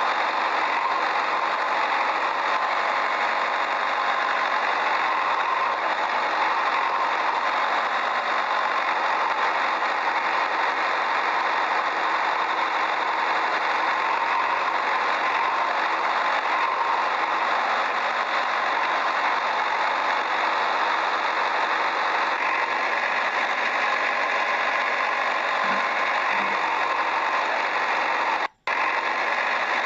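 A small motor running steadily without a break, with a brief dropout to silence near the end.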